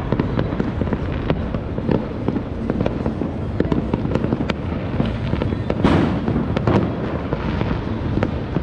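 Many distant fireworks and firecrackers going off at once, a dense, continuous crackle of pops and bangs over a steady low rumble. One stronger burst comes about six seconds in.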